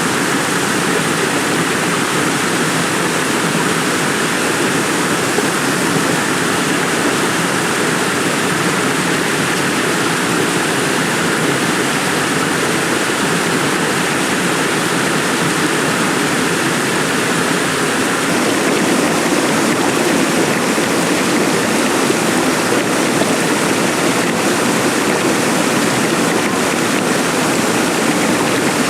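Heavy rain falling steadily, a dense even hiss that grows a little louder about two-thirds of the way through.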